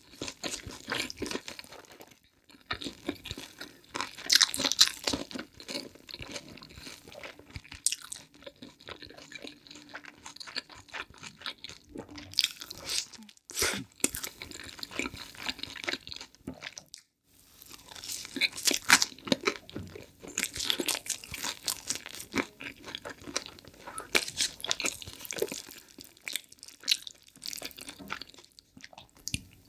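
Close-up crunching and chewing of pizza crust: repeated crisp bites and chews with a few short pauses.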